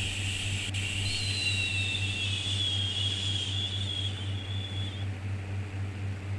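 A long, soothing "shhh" shushing sound with a slight whistle in it, which stops about five seconds in and starts again near the end, over a steady low hum.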